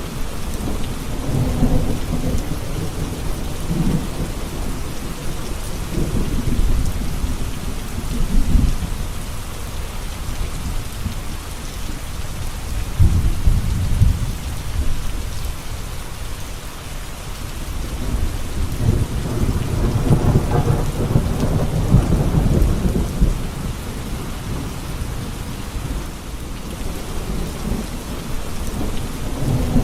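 Steady rain with rolling thunder, the deep rumbles swelling up and fading away several times.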